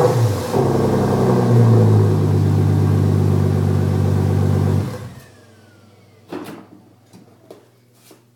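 1999 Porsche Boxster's flat-six engine through a Stebro stainless race exhaust, revving up and back down once, then idling steadily until it stops abruptly about five seconds in. A single knock follows a second or so later.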